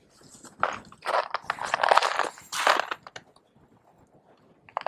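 Crunching footsteps on snow-covered ice, a run of quick irregular steps lasting about two and a half seconds, then a few faint clicks near the end.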